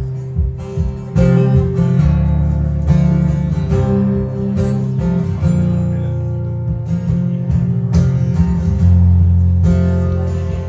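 Acoustic guitar being strummed, playing chords as a song's introduction.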